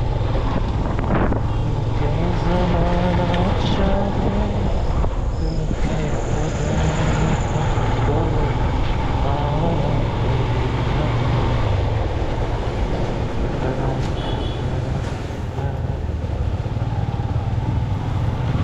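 Steady engine and road noise of a motorbike riding through city traffic, with the sounds of other vehicles passing around it.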